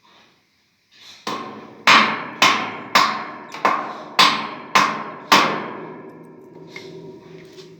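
Hammer blows during a window AC installation: about eight strikes at roughly two a second, the first lighter, each leaving a ringing tone that fades out over a couple of seconds after the last blow.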